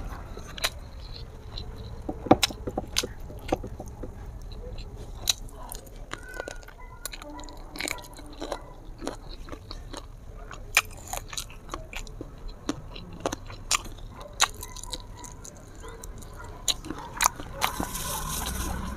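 Chewing and lip smacks of someone eating saucy chicken feet and rice, with irregular sharp smacking clicks.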